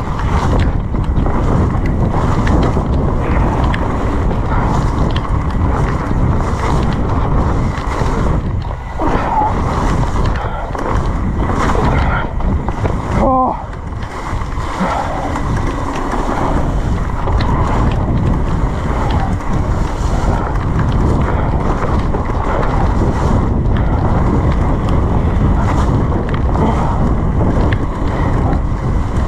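Wind rushing over the camera microphone, with tyre and splash noise from a mountain bike riding fast down a wet, muddy trail in heavy rain.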